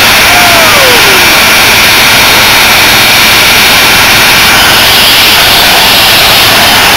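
Two cars doing burnouts at once: engines held at high revs and rear tyres spinning on the pavement, a loud, steady, dense roar of engine and tyre noise.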